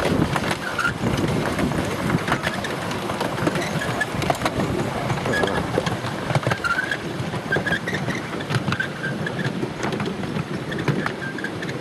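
Ride noise from an open carriage of a miniature steam railway train: a steady rumble of wheels on the track with frequent clicks from the rail joints and short high squeaks now and then.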